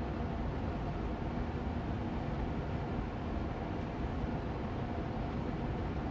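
Austin Air Allergy Machine air purifier fan running steadily on medium speed: an even airy hum, heaviest in the low range, with a faint steady whine in it.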